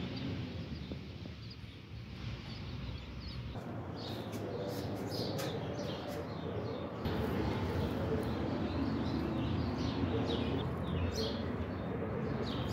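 Small birds chirping in short, scattered calls over a steady outdoor background hum, which steps up abruptly twice where the footage is cut.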